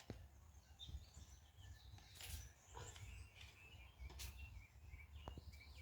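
Faint birds chirping, many short rising and falling calls, with a few sharp clicks and a low rumble underneath.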